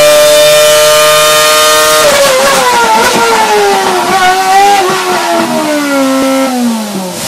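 Renault 2.4-litre V8 Formula One engine held at steady high revs, then about two seconds in coming off the throttle. The revs wind down unevenly with a few small blips, falling to a low pitch near the end.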